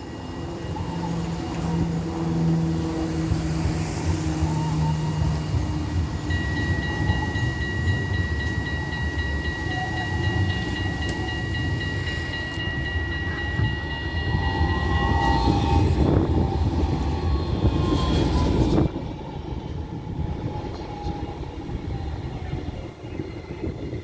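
Tram running past at close range, a loud rumble of wheels on rail. A steady high-pitched tone sounds for about nine seconds in the middle, and the rumble is at its loudest just before it drops off sharply near the end.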